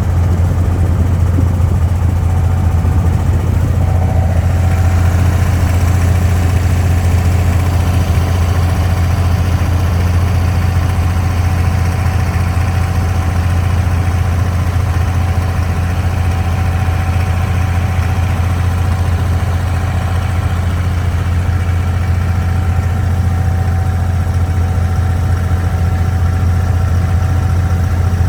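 Diesel engine of an abra (wooden creek water taxi) running steadily under way, a deep even hum.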